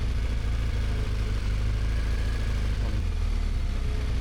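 Motorcycle engine running at a steady cruise while riding, with a strong low rumble of engine and road noise.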